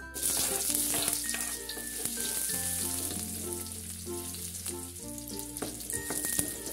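Sliced shallots and chopped garlic sizzling in hot oil in an aluminium wok, the sizzle flaring up suddenly as they drop in, with a spatula stirring them as they fry.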